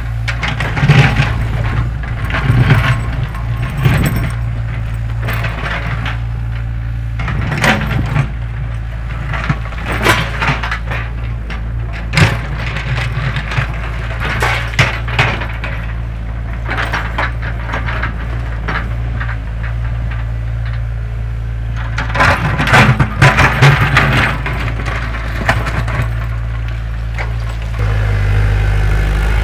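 Excavator engine running steadily while the bucket digs, with rocks and soil knocking and clattering against it in scattered bursts. The engine grows louder near the end.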